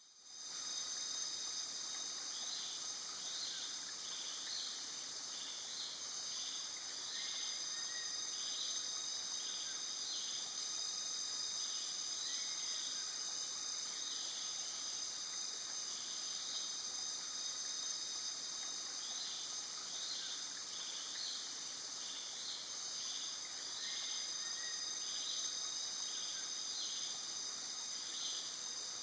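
Insect chorus: a steady high-pitched drone of several tones, with groups of short quick chirps pulsing over it and a few faint bird notes now and then.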